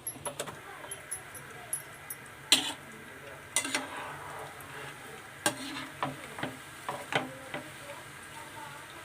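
Chicken pakodi frying in hot oil with a steady sizzle, stirred with a utensil that knocks and scrapes against the pan a dozen or so times at irregular intervals, the loudest knock about two and a half seconds in.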